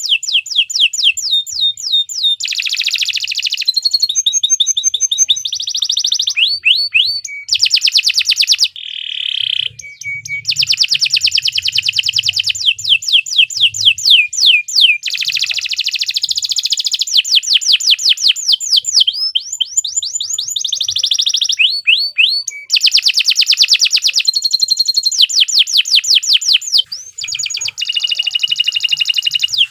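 Domestic canary singing a long unbroken song: fast trills of repeated down-slurred notes, several a second, switching to a new trill or a short steady whistle every few seconds.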